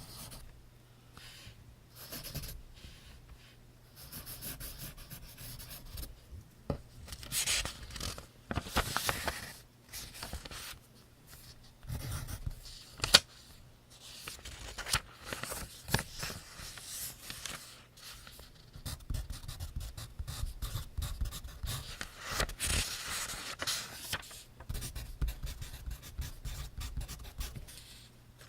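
Pencil writing on notebook paper: bursts of scratchy strokes broken by short pauses, with a single sharp tap about halfway through.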